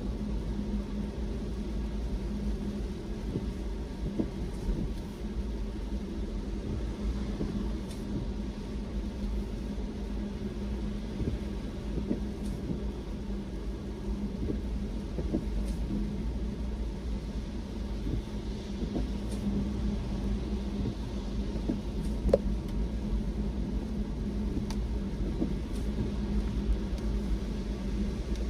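Car driving along a road: a steady low rumble of road and engine noise, with a steady hum.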